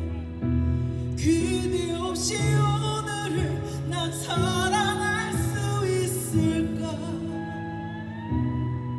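Live band playing the slow, quiet closing section of a ballad. The chords change about once a second under a wavering lead melody, and a long held note near the end.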